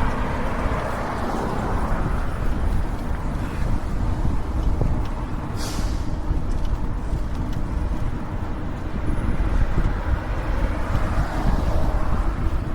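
Steady wind rumble on the microphone of a moving e-bike, mixed with road traffic noise. There is one brief, sharp hiss about six seconds in.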